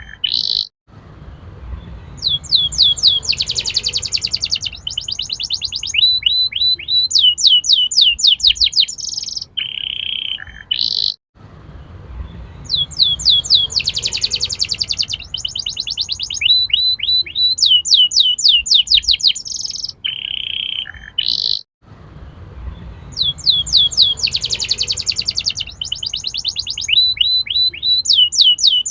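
Domestic canary singing fast, high trills and rolling runs of repeated notes. It is a recorded song of about ten seconds played on a loop, restarting three times after a brief gap.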